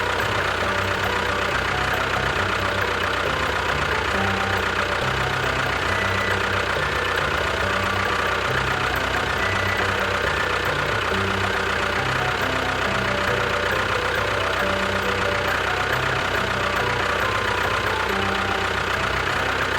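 An engine running steadily at idle, with no break in the sound.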